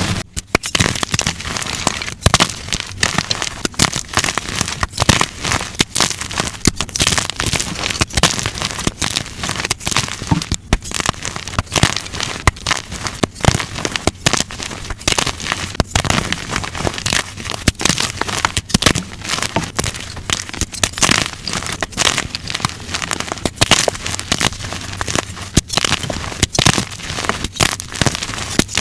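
Blocks of dyed gym chalk crushed by hand: dense, continuous crunching and crackling with many sharp snaps.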